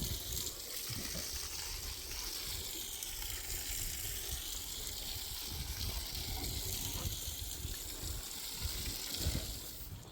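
Steady rush of spraying water, a hiss whose tone drifts slowly up and down.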